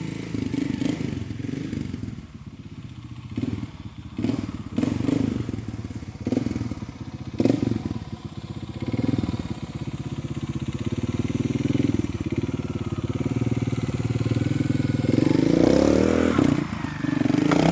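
Trials motorcycle engine running at low revs with short throttle blips every second or so, then revving up and down near the end.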